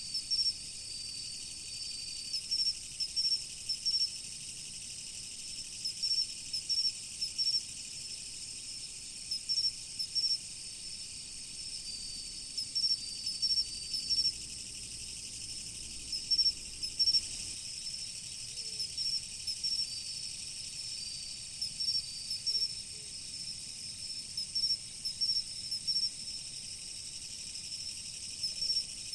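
Autumn crickets chirping in short repeated bursts over a steady high insect trill. Three times, a longer, even note of about two seconds joins in.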